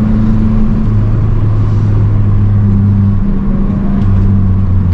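Mazdaspeed 3's turbocharged 2.3-litre four-cylinder with intake, cat-back exhaust and race pipe, running steadily while driving, heard from inside the car. The engine note drops a little about three to four seconds in.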